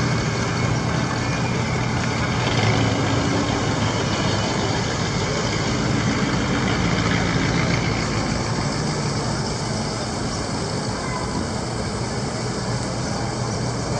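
Car engines running steadily as cruising cars pass, with general street noise.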